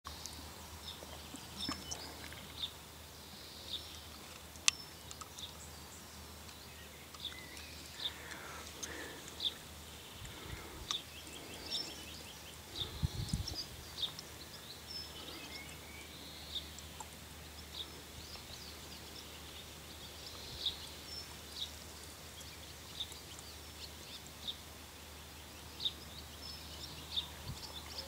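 Outdoor birdsong: scattered short, high chirps from small birds, a few a second at times, over a faint steady low hum, with a brief low rumble about 13 seconds in.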